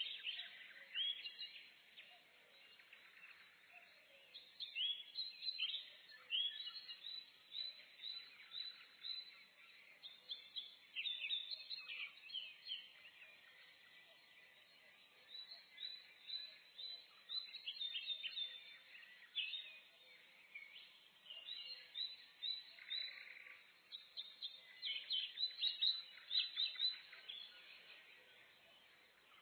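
Several small songbirds chirping and singing in a forest chorus: short, high, rapid notes coming in clusters with brief lulls, over a faint steady background hush.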